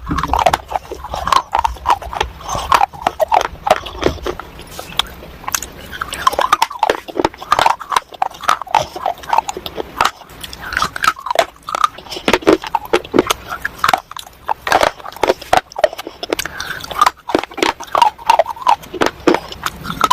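Roasted clay and white slate being bitten and chewed close to the microphone: a dense run of irregular dry, crunchy cracks with short pauses between bites.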